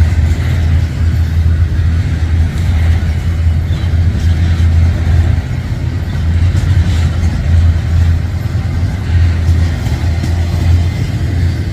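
Union Pacific double-stack container train rolling past at close range as it picks up speed: a loud, steady low rumble of wheels and cars on the rails, with scattered light clanks.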